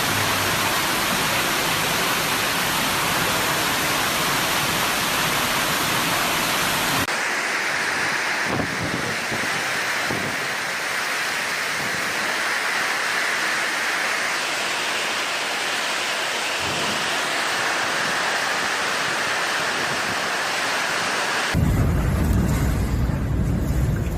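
Loud, steady noise of hurricane wind and heavy rain, spliced from several clips. The sound changes abruptly about seven seconds in, and near the end a deep low rumble takes over.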